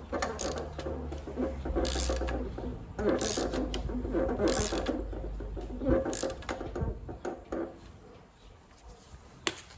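Ratchet wrench turning a 1.6 HDi/TDCi diesel engine over by hand at the crankshaft, clicking in repeated bursts about every second and a half and fading near the end. The engine is being rotated through two turns to check the timing after a new timing belt was fitted.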